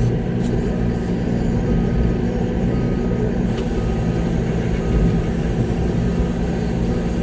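Concrete mixer truck's diesel engine running steadily, heard from inside the cab, with a faint backup alarm beeping about once a second from about two seconds in as the truck goes in reverse.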